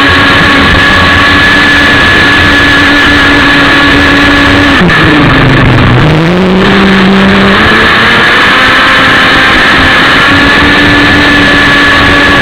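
ASP 61 two-stroke glow engine of an RC speedboat running at high revs, heard close up from on board. About five seconds in the pitch drops sharply as the throttle comes off, then climbs back up over a couple of seconds and holds steady again.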